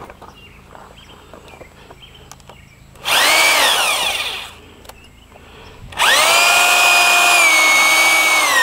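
Power drill running in two bursts of motor whine. A short one about three seconds in winds down; a longer, steady run starts about six seconds in and begins to wind down near the end. Faint handling clicks come before the first burst.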